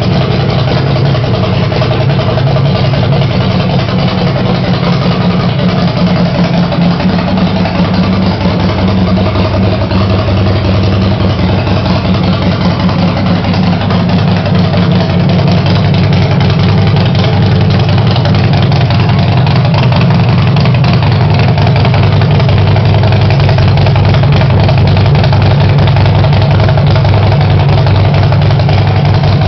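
Harley-Davidson bobber's V-twin engine idling steadily on its first start-up, getting slightly louder about halfway through.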